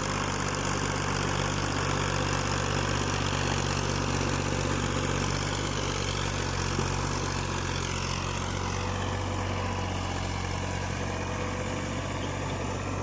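Fiat 480 tractor's diesel engine running steadily under load while pulling a nine-tine cultivator.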